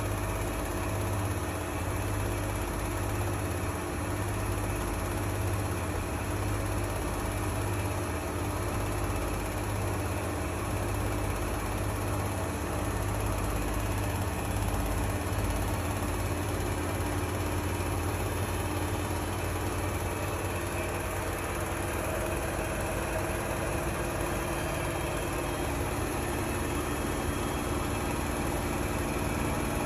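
Bosch washing machine running at an intermediate spin speed with a strange clicking noise. A low hum pulses about once every second and a half through the first half, then steadies.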